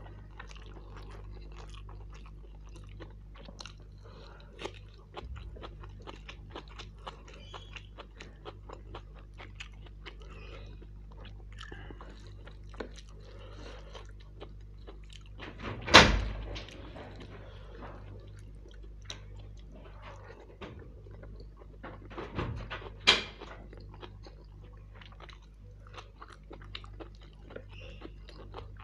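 Close-up mouth sounds of a man chewing mutton kofta biryani, a steady run of small wet clicks and smacks. Two loud thumps stand out, one about halfway through and another some seconds later.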